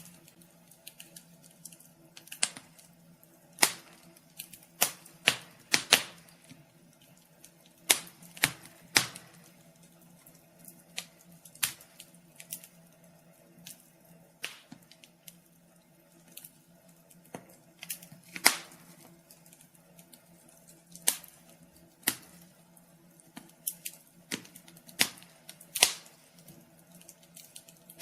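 Wood fire crackling in a fireplace: irregular sharp pops and snaps, some loud, over a faint steady low hum.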